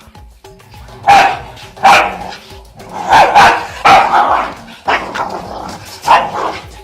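A dog barking repeatedly: about seven loud, short barks at uneven intervals, some in quick pairs.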